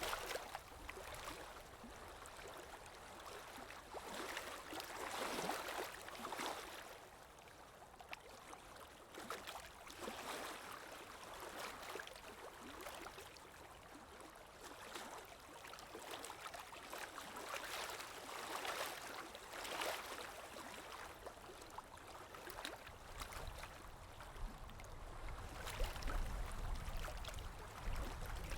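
Ocean waves breaking and washing, the surge swelling and fading every few seconds, with a low rumble near the end.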